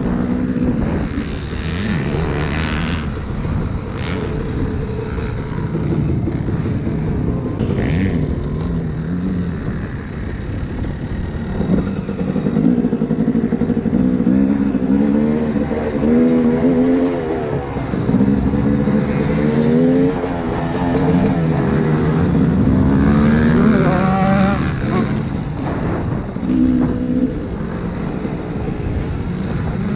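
Dirt bike engines revving and easing off again and again, their pitch climbing and falling as the bikes are ridden around a motocross track.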